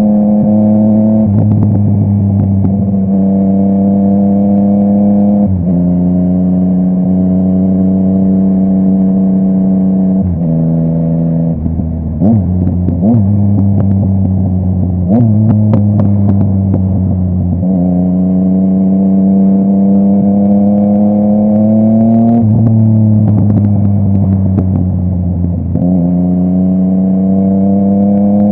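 Yamaha MT-09's three-cylinder engine through a full Akrapovic exhaust, riding through the gears: the pitch climbs in each gear and drops sharply at every shift, about eight times. In the middle stretch, crackling pops come from the exhaust as the throttle closes.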